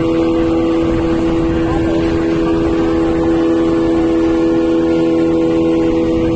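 Engine running at a steady speed: a loud, constant hum with an unchanging pitch.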